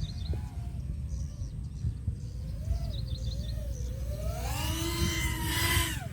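FPV drone motors and propellers whining, the pitch wandering with the throttle, then rising to a loud high whine near the end before dropping sharply. Birds chirp briefly near the start and about three seconds in, over a steady low rumble.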